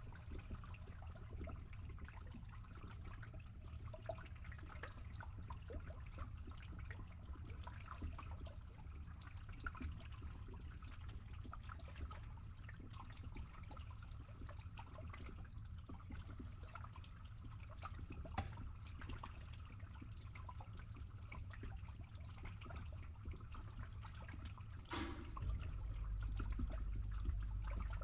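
Water trickling and dribbling, with many small scattered drips and patters over a steady low hum. About 25 s in there is a short hiss, and the low hum then grows louder.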